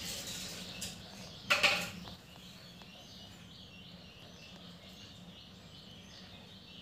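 Birds chirping faintly in the background, with a brief loud noisy burst about a second and a half in.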